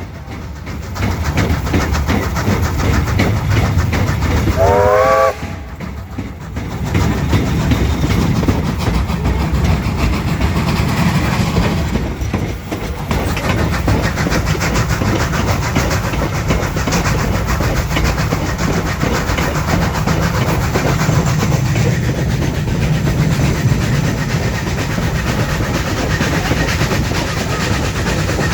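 Vintage train running, with a steady rumble and wheel clatter, and one short whistle toot about five seconds in that rises in pitch.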